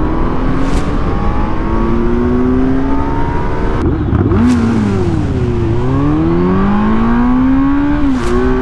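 Kawasaki Z900's inline-four engine pulling hard under acceleration, its pitch climbing steadily in each gear. The revs drop with a shift about four seconds in, sag briefly and climb again, then drop once more near the end.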